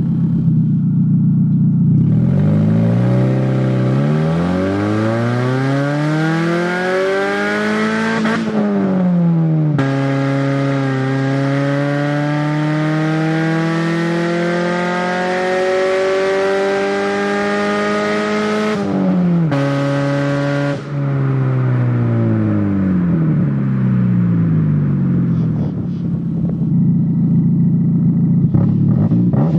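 1993 Saturn SW2's 1.9 L twin-cam four-cylinder running with an open exhaust manifold and no pipe after it. It accelerates hard from idle through two gears, with a brief lift for the shift about 9 s in, then eases off and falls back to a steady idle near the end.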